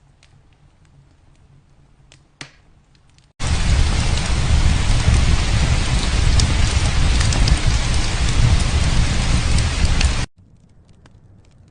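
Heavy rain downpour, a dense loud hiss with a low rumble underneath, cutting in abruptly about three seconds in and stopping just as suddenly some seven seconds later. Before and after it, only faint scattered ticks and crackles.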